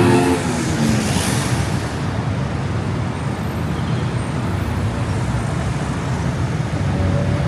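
Steady city road traffic: a low rumble of passing engines and tyres, with a short high hiss about a second in.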